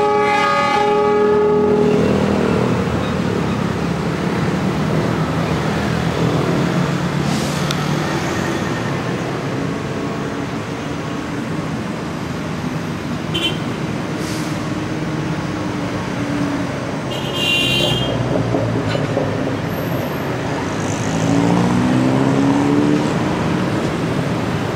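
Train of passenger carriages rolling slowly along the track while being shunted, with a horn sounding for about two seconds at the start. A short high squeal comes about 17 seconds in, and a rising engine note near the end.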